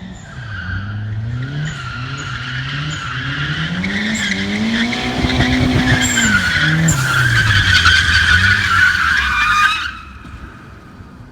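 A drifting car's engine revving up and down over and over while the rear tyres squeal. The squeal builds steadily to a peak and then stops abruptly a little before the end.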